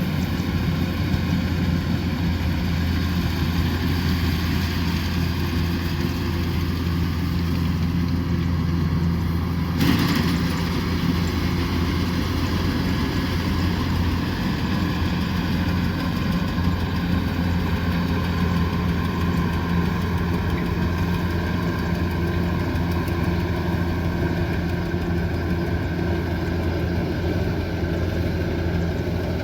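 Kubota combine harvester's diesel engine running steadily with a constant low hum, and a single brief click about ten seconds in.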